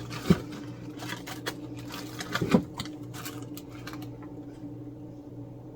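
Light clicks, taps and rustles of small craft pieces being handled on a table, two of them louder, over a steady low hum.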